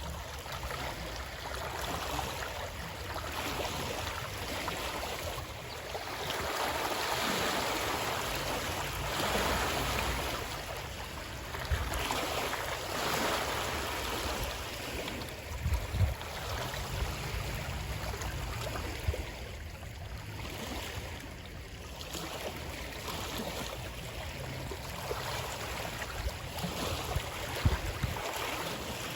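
Moving water, a steady rushing that swells and eases every few seconds, with a few short low thumps.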